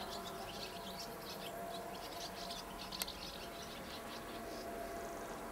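Many small birds twittering in a quick run of short, high chirps, with one sharp click about three seconds in.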